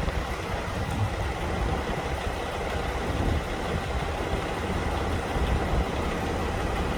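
Mack E7 11.9-litre turbo diesel engine of a 2004 Mack RD6885 dump truck idling steadily.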